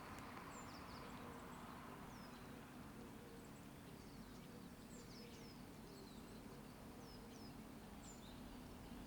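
Faint, quick chirps and short falling whistles from several small birds, scattered throughout, over a steady low hum of distant road traffic.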